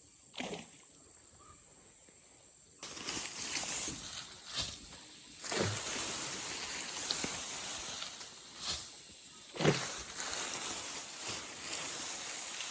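Grass rustling, with about five short falling swishes; it starts up after a near-quiet opening of about three seconds.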